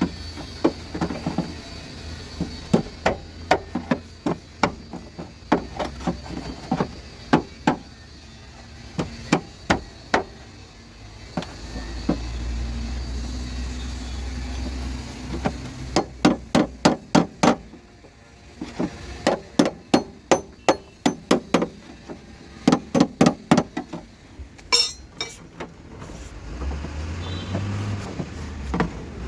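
Hammer blows on a car's running board, several strikes a second in runs broken by short pauses.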